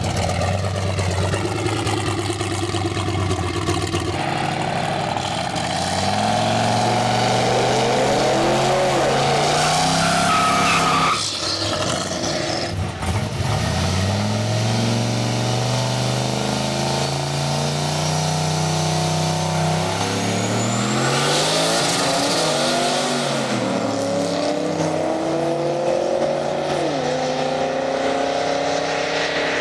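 Drag racing car engines at full throttle down the strip, the pitch climbing hard and dropping back at each gear shift, over several passes.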